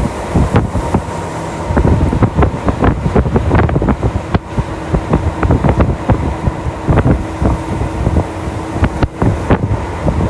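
Tokyu Toyoko Line train running at speed: a continuous rumble of wheels on the rails, with frequent irregular clicks and knocks and a steady hum underneath.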